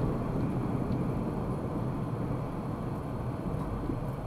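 Steady road and engine rumble of a car driving, heard from inside the cabin, easing slightly in level.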